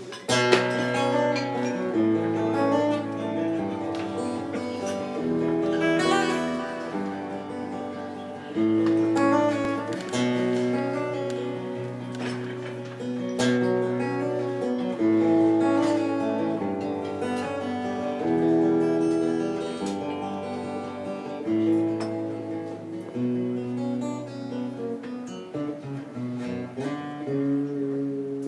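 Acoustic guitar playing a song's instrumental introduction, chords changing every two seconds or so.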